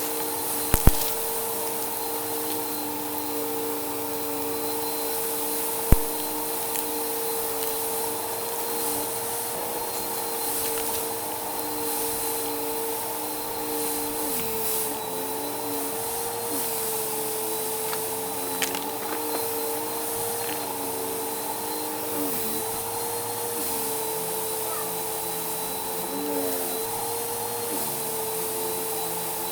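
Vacuum cleaner running steadily with a constant motor whine, its lower tones dipping and wavering in the second half. Two sharp clicks stand out, one about a second in and one at about six seconds.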